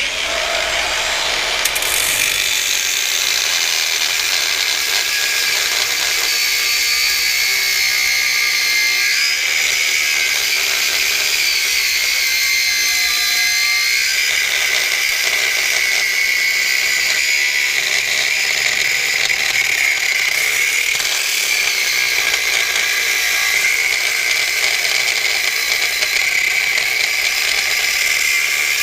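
Electric power tool running continuously with a steady high whine over a hiss, cutting into the metal of a scrapped power washer.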